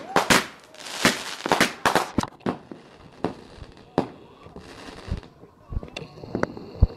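Fireworks going off: a quick run of bangs and crackles over the first couple of seconds, then single bangs spaced further apart, with a heavier thump near the end.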